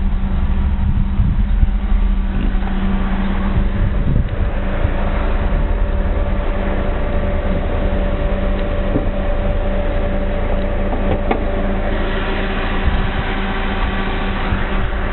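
1998 Mitsubishi Eclipse RS's 2.0-litre 420A four-cylinder engine running steadily. Its tone turns brighter and harsher in the last few seconds.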